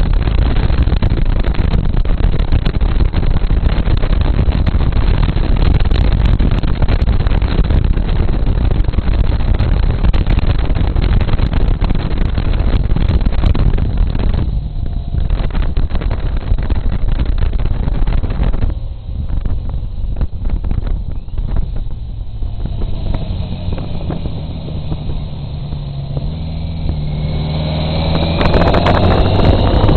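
Wind buffeting the camera's microphone during a bike ride, heavy and rumbling for the first half, then easing with brief lulls past the middle. Near the end an engine sound climbs in pitch as the noise builds again.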